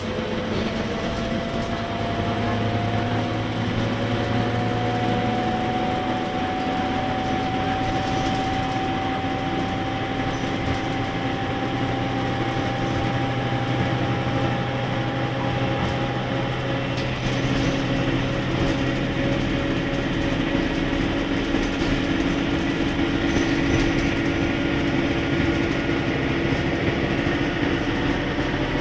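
Scania K230UB bus running under way: the Scania D9C diesel engine and ZF six-speed automatic gearbox carry a steady hum with a whine that rises slowly in pitch, and the tone changes about seventeen seconds in.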